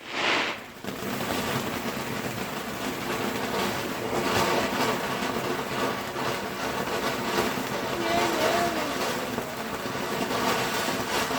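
A lit firework sending out a steady, loud hissing crackle, dense with small pops, that runs for about eleven seconds before dying away.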